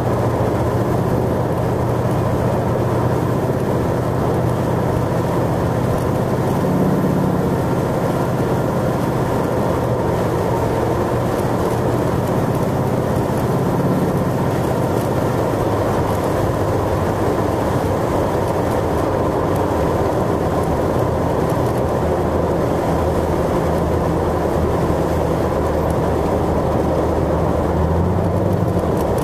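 Chevy 350 V8 of a 1926 Ford Model T Tudor hot rod running steadily at highway cruising speed, with road noise, heard from inside the car.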